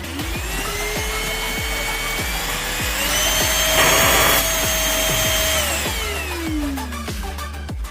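Cordless stick vacuum motor switched on and spinning up with a rising whine, stepping up to a higher pitch about three seconds in as a higher power mode, with a short burst of rushing air around four seconds, then winding down with a falling whine near the end. Electronic music with a beat plays underneath.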